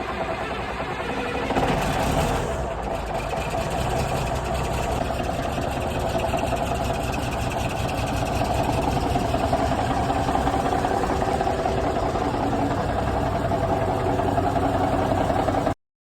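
Big cam Cummins inline-six diesel in a 1980 Kenworth K100 running just after a cold start, with a brief louder burst about two seconds in, then a steady idle. The audio cuts off near the end.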